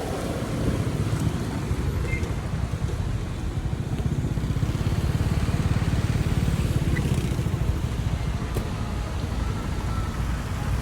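Road traffic on a rain-wet avenue: vehicle engines and tyres on the wet road make a steady low rumble.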